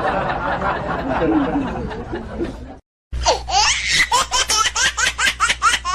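Laughter: a dense laughing sound that cuts off abruptly just before the middle, then after a brief silence a quick run of short, high-pitched laughs, about five a second.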